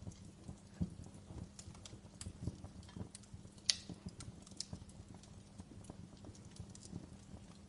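Wood fire crackling in a fireplace: scattered irregular pops and snaps, one sharper pop a little under four seconds in, over a low steady hum.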